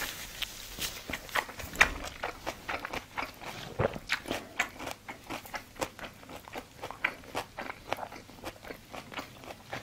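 A person chewing a mouthful of food close to the microphone: wet smacking and crunching clicks, several a second.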